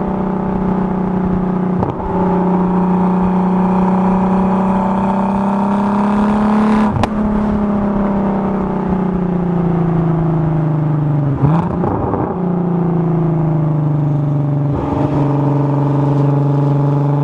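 Turbocharged VR6 engine of a Volkswagen Golf MK4 running under way. Its steady note drifts slowly up and then down in pitch, broken briefly four times, with a sharp click about seven seconds in.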